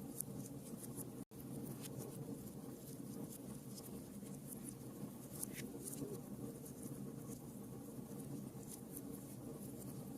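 Faint room noise: a steady low hum with scattered small clicks and scratches.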